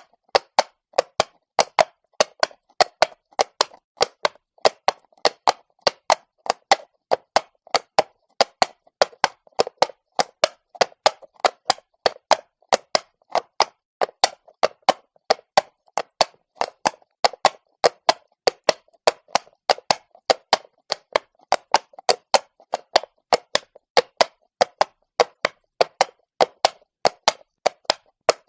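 Horse's shod hooves clopping on cobblestones at a walk: a steady, even run of sharp knocks, about three to four a second.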